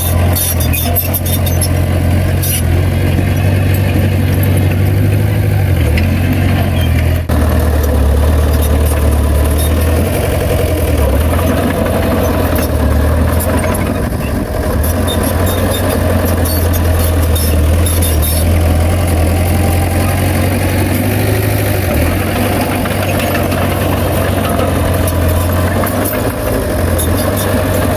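Heavy diesel engine of earthmoving machinery running steadily with a deep rumble that shifts in pitch a few times as the load changes.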